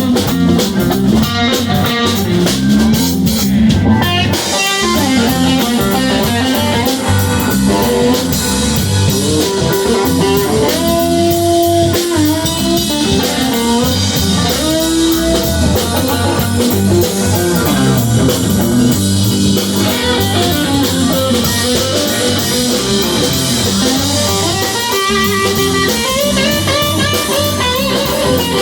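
Live band playing guitar-led music over a drum kit, with two long held guitar notes around the middle.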